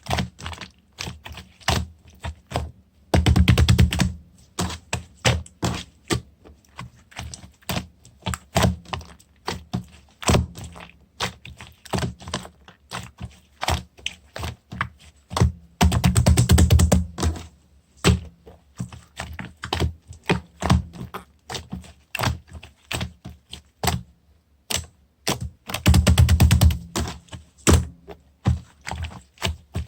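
Slime being played with by hand, making irregular sticky clicks and pops. Three bursts of rapid, dense crackling come about three seconds in, at the middle and near the end.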